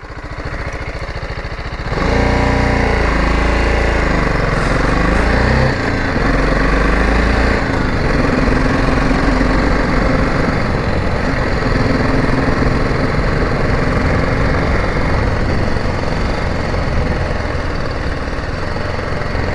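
Motorcycle engine at low revs, then revving up as the bike pulls away about two seconds in, its pitch rising and falling through the gears before it settles into steady running.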